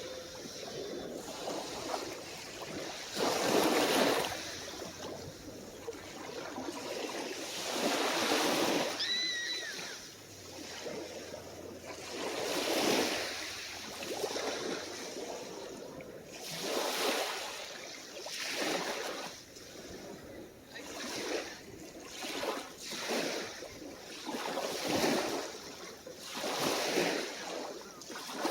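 Small, calm waves washing onto the shore, one surge every two to four seconds. A short high call with a slight bend sounds once, about nine seconds in.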